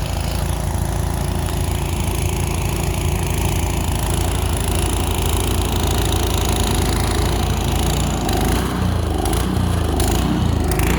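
Gasoline snowblower engine running steadily, its pitch wavering near the end.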